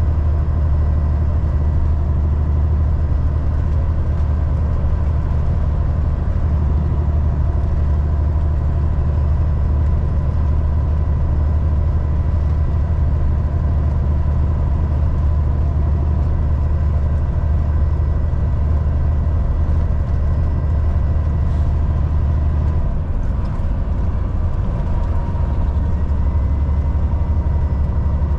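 Volvo VNL 760 diesel semi truck driving on the highway: a steady low engine drone with a constant hum and road noise. About three-quarters of the way through, the low drone turns rougher and less even.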